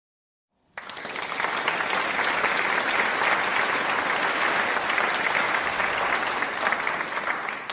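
Applause from an audience: a crowd clapping, coming in abruptly, holding steady for several seconds, then fading out near the end.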